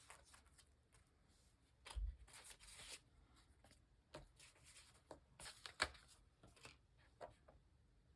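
Paper and stickers being handled on a desk: soft rustling, peeling and light taps, with a dull thump about two seconds in and a sharp tap near six seconds.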